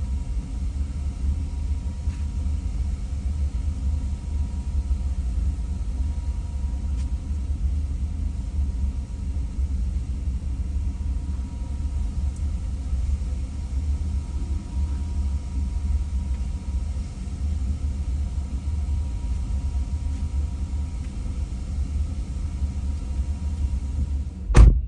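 Steady low rumble of a car on the move, with a single sharp click near the end after which the rumble drops away.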